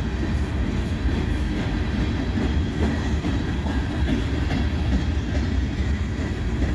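Freight train cars rolling past close by: a steady, even running noise of steel wheels on the rails, strongest in the low range, with no horn and no engine note standing out.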